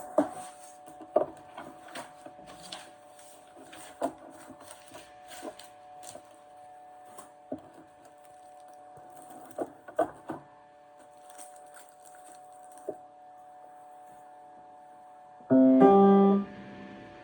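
Piano played sparsely: scattered short notes and sharp knocks over a steady held tone, then one loud chord near the end.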